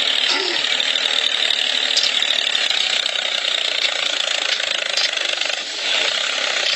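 Small motor of a homemade model tractor running steadily, a high buzzing whir with a rattle, dipping briefly near the end.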